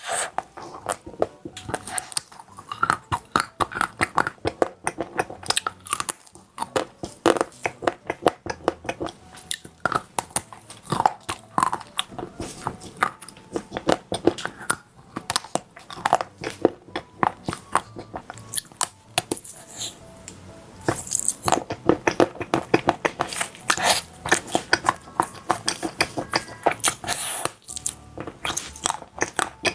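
Someone biting and chewing crispy chocolate-coated food: a dense run of sharp crunches with a few short pauses.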